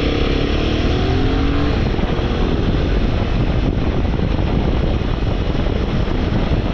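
Royal Enfield motorcycle engine pulling away, its pitch rising as it accelerates over the first couple of seconds, then running on under a steady rush of noise.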